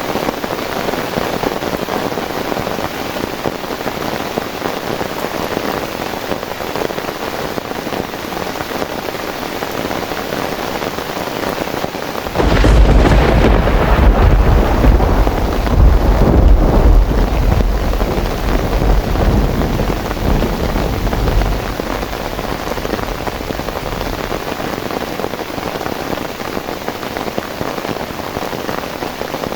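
Steady heavy rain. About twelve seconds in, a sudden loud crack of thunder breaks in and rumbles deeply for about nine seconds before fading back into the rain.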